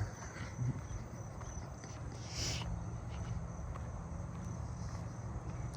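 Crickets trilling steadily with a high, thin, unbroken note, and a short brighter high sound about two and a half seconds in.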